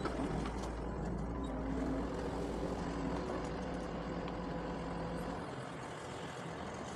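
Doosan DX140 excavator's diesel engine running steadily under work; its deep low hum falls away about five seconds in.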